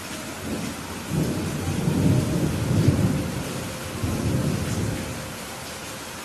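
Steady rain with a rolling peal of thunder that swells about a second in, rumbles loudest around the middle, and dies away near the end.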